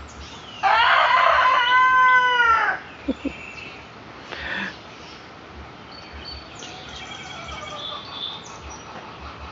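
A Black Australorp rooster crowing once: a single loud crow about two seconds long that holds its pitch and drops at the end. Faint chirps follow.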